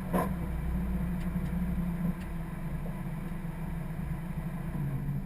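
1999 Mustang SVT Cobra's 4.6-litre V8 running steadily at low revs, muffled through a sealed camera housing, with a short knock about a quarter second in.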